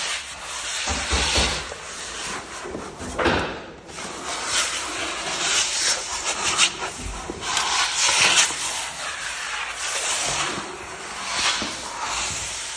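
Repeated uneven scraping strokes of a filler knife across a parquet floor, working wood-dust joint filler into the gaps between the boards, with a few low knocks.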